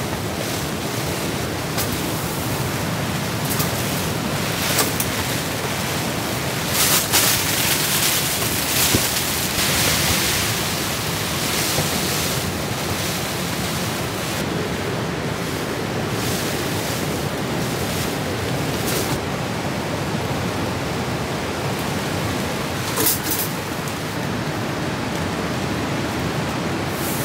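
Heavy rain and gusting wind beating on the fly of a Zempire Pronto 4 air tent, heard from inside: a steady dense hiss that swells with stronger gusts from about seven to twelve seconds in.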